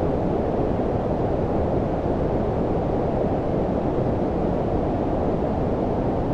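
Steady low-pitched synthetic noise of the brown-noise kind, a deep even rumble-hiss with most of its weight below about 1 kHz and no changes or events.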